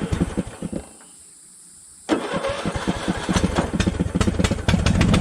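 An old Craftsman mower's engine is cranked by its electric starter, stops for about a second, then is cranked again. The cranking quickens, and near the end the engine catches and runs steadily. This is a restart after the engine flooded and the spark plug was cleaned and the cylinder dried out.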